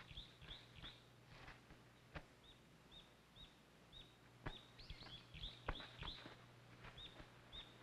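Faint bird chirps: short, high, arching notes repeated about twice a second with a few brief pauses. A low steady hum and a few faint clicks sit underneath.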